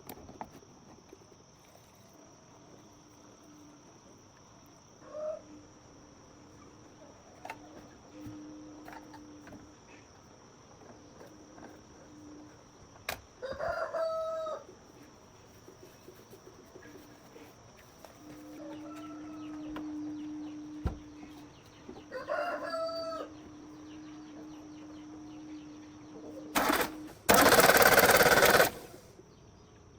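A rooster crowing twice, each crow about a second long and about eight seconds apart, over a faint low hum that comes and goes. Near the end a loud rushing noise of a couple of seconds drowns everything out.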